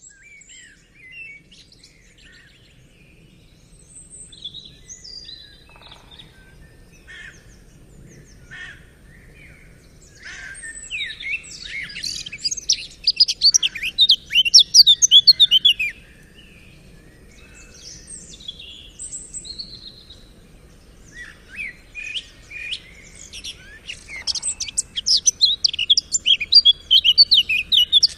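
Songbirds singing: scattered chirps and whistles, broken by two loud stretches of rapid, dense song, the first about ten seconds in and the second near the end.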